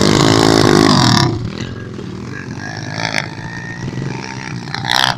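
Pit bike engine revving loudly, its pitch wavering, then dropping back to a lower steady running note about a second in.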